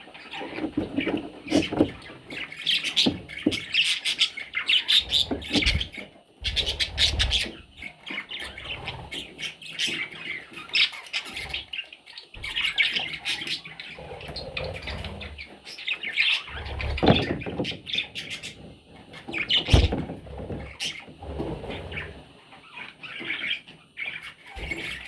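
Baby budgerigars chirping and squawking nonstop in a dense, scratchy chatter, with short scuffling clicks and occasional low knocks from their movement.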